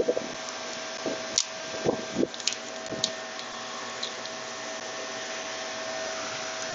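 Steady whir of running machinery with a constant hum, and a few light knocks and clicks in the first three seconds from work on the blower belt drive as the new belt's tension is set.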